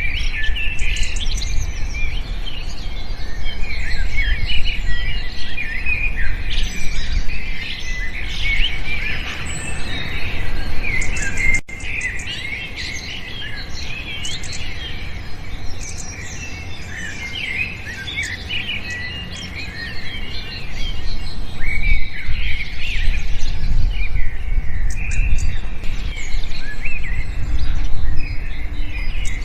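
A dense chorus of many small birds chirping and twittering at once, with overlapping quick calls and trills. The chorus thins and drops in level for several seconds after a brief break about twelve seconds in, then fills out again. A low rumble runs underneath.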